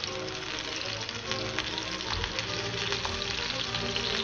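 Vegan burger patties sizzling in hot oil in a frying pan, a steady hiss with many small pops, with background music underneath.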